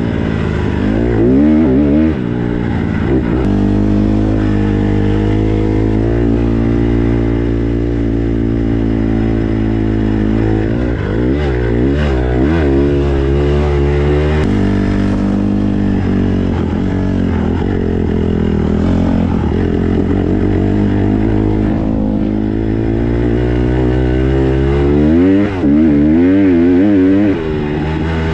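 Small four-stroke single-cylinder dirt bike engine being ridden, its revs rising and falling quickly for the first few seconds, again around halfway, and near the end, with long stretches of steady throttle in between.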